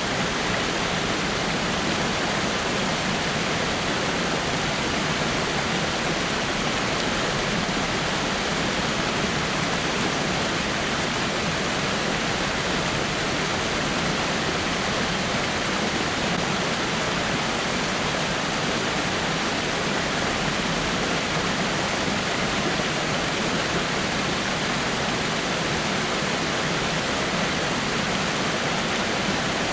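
Water of a small rock waterfall pouring steadily over rocks: an even, unchanging rush with little deep rumble.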